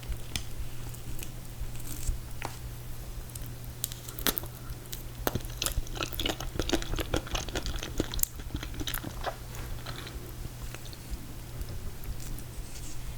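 Close-miked chewing of ice cream cake made of confetti cake and mint chocolate chip ice cream: wet mouth clicks and small crunches, busiest in the middle. A steady low hum runs underneath.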